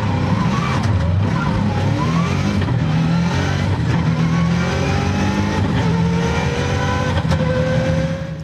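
A racing car's engine running hard under acceleration, its pitch climbing with the revs and dropping back at each gear change, with a long rising pull in the second half.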